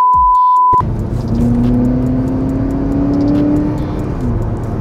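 A censor bleep, one steady high tone, covers a swear word for the first second. Then the Acura TSX is heard from inside the cabin, accelerating, its engine note rising slowly for about three seconds before easing off.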